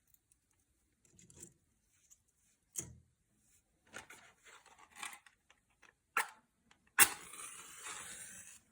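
A few short scrapes and knocks, then a match struck about seven seconds in, flaring with a hiss that lasts about a second and a half.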